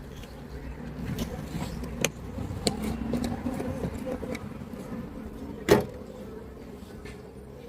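Knocks and clunks of wooden beehive parts being handled, with one sharp knock loudest near the end, over a low rumble.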